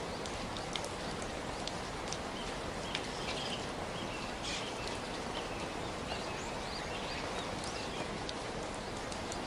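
Steady rain, an even hiss with many scattered drop ticks. A few short high chirps are heard through the middle of it.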